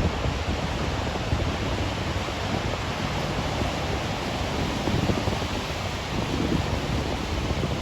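Wind buffeting the microphone: a steady rushing noise with an uneven low rumble and no distinct events.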